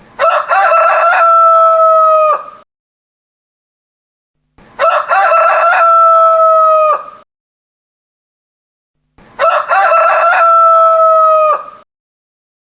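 Rooster crowing three times, evenly spaced with silence between. Each crow opens with short broken notes, then holds one long steady note that drops away at the end.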